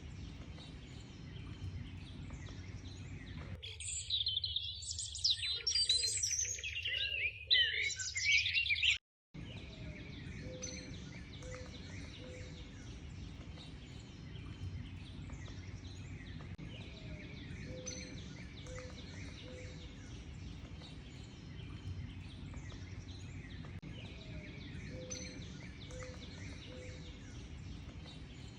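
Birds chirping and singing over a steady background hiss, with a low three-note call repeating every several seconds. From about 4 s to 9 s a louder, busier passage of rapid high chirps and trills stands out, then stops abruptly with a split second of silence before the quieter chorus resumes.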